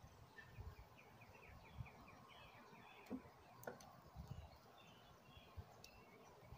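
Near silence with a bird singing faintly in the background, a quick run of short chirps about half a second in, and a few soft knocks and clicks from wooden hive frames and boxes being handled.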